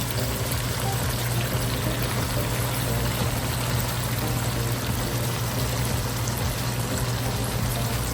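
Water running and pouring steadily, with a steady low hum underneath.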